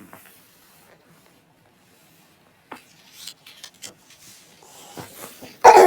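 Light rubbing and scattered clicks of small toy figures being handled on a hard surface, starting about three seconds in. A sudden loud sound comes at the very end.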